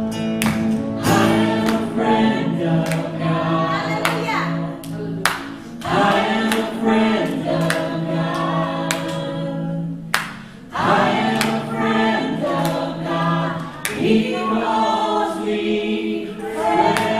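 Live church worship music: voices singing a gospel song together over a band, with sustained chords and regular percussive hits.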